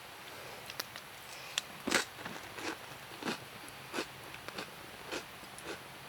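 A person chewing something crunchy, one soft crunch about every two-thirds of a second from about two seconds in, with a few sharp clicks just before.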